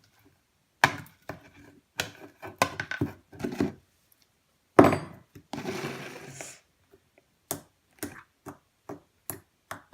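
Irregular knocks and taps of things being handled on a table, with a louder thump a little before five seconds in followed by about a second of rustling scrape.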